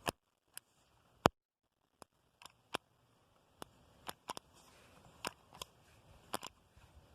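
Spark plug from a 1950 Ford 8N tractor's ignition snapping as it arcs, about a dozen sharp separate clicks at uneven intervals, the loudest about a second in: the plug is getting spark.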